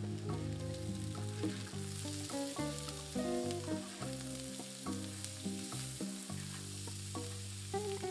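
Sliced potatoes, mushrooms and onion sizzling as they fry in a pan and are stirred with a spatula, the hiss growing a little fuller about two seconds in. Background music with held notes plays over it.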